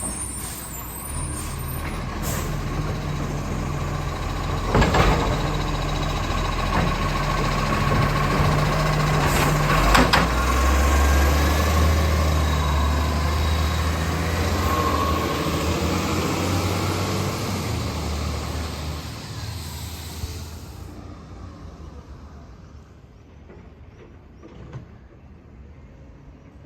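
Garbage truck engine running, with air brake sounds and two sharp sudden sounds about five seconds apart. The engine then works harder and fades away after about twenty seconds.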